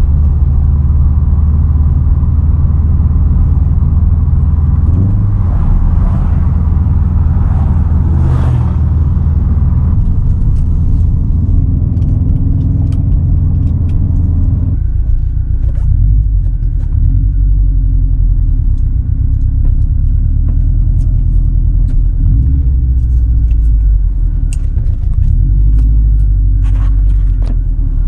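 2010 Subaru WRX STI's turbocharged flat-four running through a Tomei Expreme Ti single straight-pipe exhaust, a deep steady rumble while cruising. About fifteen seconds in the higher part of the sound drops away and the rumble carries on lower, with scattered light ticks.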